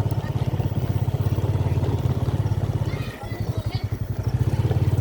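A vehicle engine running at a steady speed, a low pulsing hum that dips briefly about three seconds in and then picks up again.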